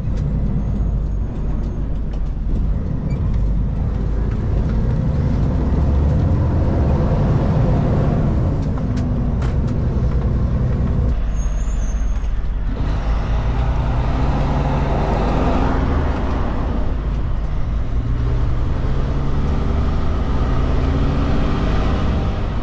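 Kenworth K200 road train's Cummins diesel engine pulling away and accelerating through the gears. Its pitch climbs and drops back at each gear change, with a marked change about halfway through.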